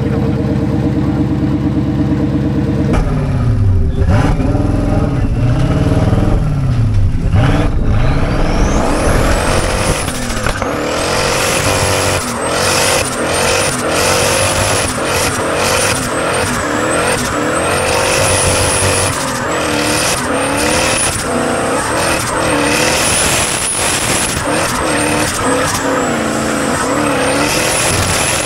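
Drift car engine held at a steady note, then revved hard and repeatedly, its pitch swinging up and down. From about nine seconds in, a high thin whistle climbs and falls again and again with the revs.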